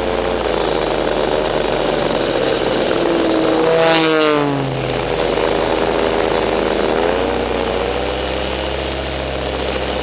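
Steady engine drone of a paramotor in flight, with an Edge 540 aerobatic airplane passing close about four seconds in: a quick rush and a sharp drop in engine pitch as it goes by.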